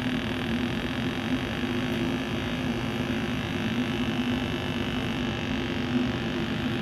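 A steady low hum made of two held tones over an even rushing noise, unchanging throughout.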